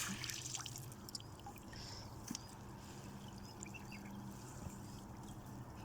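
Faint water trickling and lapping, with a low steady hum underneath and a few light ticks.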